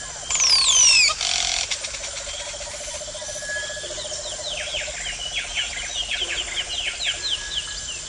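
Birds calling: a few long falling whistles near the start, then a rapid run of short falling chirps.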